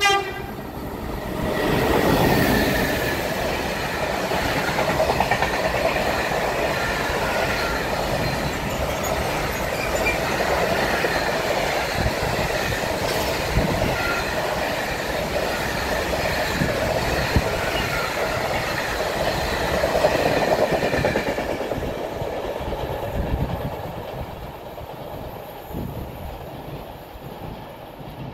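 Freight train of empty container flat wagons passing close by on steel rails: wheels clattering with thin high wheel squeal, loudest as the locomotive goes by about two seconds in, then a steady run of wagons that fades away over the last several seconds as the end of the train passes.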